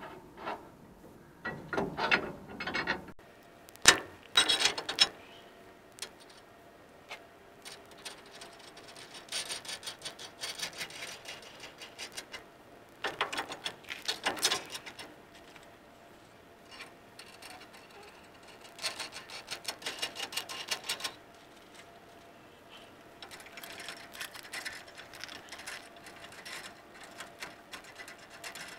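Hand ratchet wrench clicking in repeated runs, tightening nuts onto the extra-long bolts that hold a pickup's leaf spring. There is a sharp knock about four seconds in.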